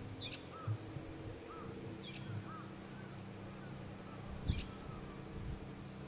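Birds calling outdoors: a short high call repeats about every two seconds, with softer chirps between in the first half. A low steady hum runs underneath, with a few low knocks.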